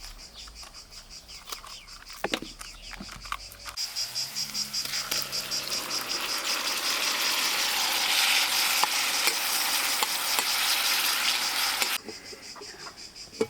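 Crickets chirping in a steady, fast-pulsing trill. About four seconds in, a broad hiss swells up over them and stops abruptly near the end.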